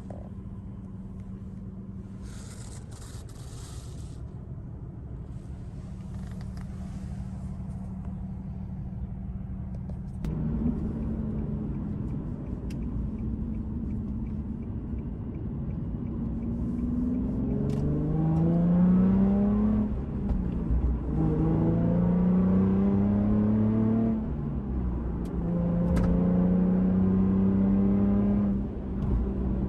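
Nissan Fairlady Z Z34's 3.7-litre V6, fitted with an HKS aftermarket exhaust, running steadily at first. About a third of the way in the sound steps up, then the engine note climbs three times, with a brief drop between each climb, as the car accelerates through the gears.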